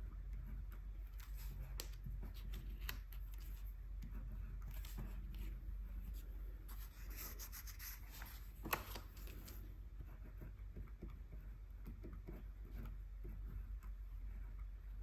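Paintbrush strokes of acrylic gouache on paper, soft scratchy brushing and rubbing with small handling rustles, and one sharp click about halfway through.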